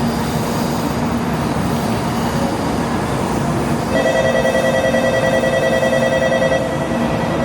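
A Shinkansen train stands at the platform with its steady hum over station noise. About four seconds in, an electronic platform warning tone rings steadily with a fast flutter for nearly three seconds, then stops.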